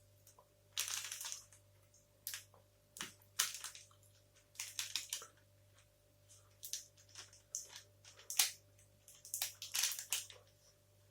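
A person chewing a protein bar close to the microphone: irregular clusters of short chewing and mouth noises, with brief pauses between them.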